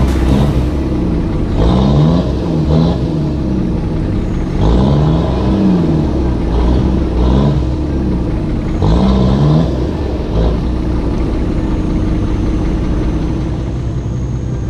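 Off-road 4x4 engine revved up and let fall back several times in a row, then settling to a steadier note near the end.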